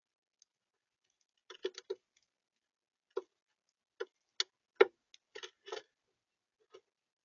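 About a dozen sharp taps and knocks at irregular spacing on the bird feeder, as birds peck at seed and shift about on it close to the camera's microphone. The loudest knock comes a little before five seconds in.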